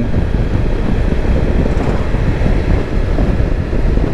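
Kawasaki Versys-X 300 motorcycle cruising: its parallel-twin engine runs steadily under a constant rush of wind and road noise on the rider's microphone.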